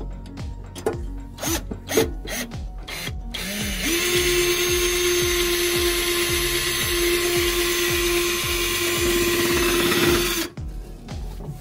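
Power drill boring a hole, running steadily at one speed for about six seconds and then stopping abruptly. It is preceded by a few sharp clicks and knocks.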